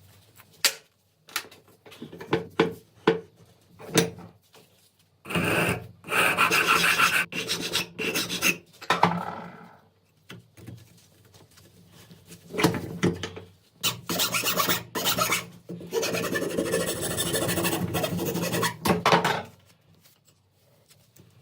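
Rasping strokes of rust being scraped off AK-47 metal parts by hand. A few short strokes come first, then long runs of continuous rasping.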